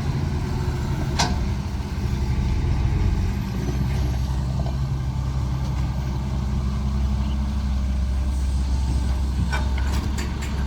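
Heavy diesel machinery running steadily: an excavator and truck at work loading earth. A sharp knock comes about a second in, and a few more knocks follow near the end.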